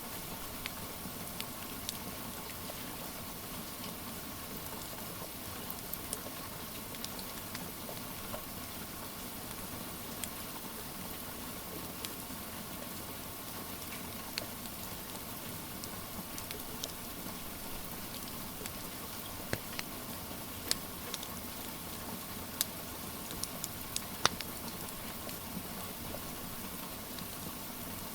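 Steady rain hiss with the scattered sharp pops and crackles of a wood fire, a few louder pops in the second half.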